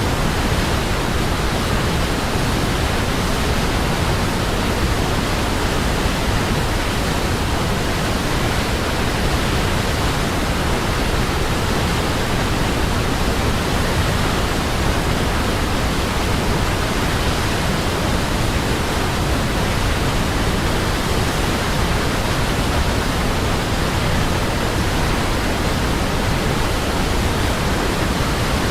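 Waterfall: a steady, even rush of falling water that neither changes nor breaks.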